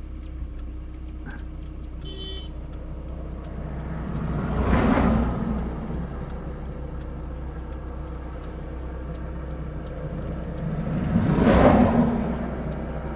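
Two vehicles driving past one after the other over a steady low hum. Each one's noise swells and fades over about two seconds, the first around five seconds in and the second near the end.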